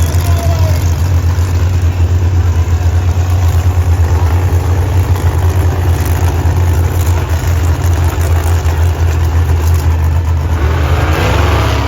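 A large vehicle engine running steadily with a deep, pulsing hum, picking up a little near the end.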